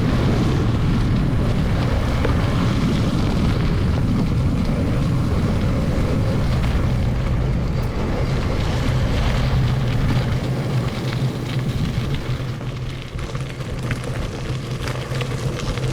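Wind buffeting the microphone over a low rumble during a ride on a forest road, played back at double speed. The rush eases about ten seconds in, leaving scattered clicks.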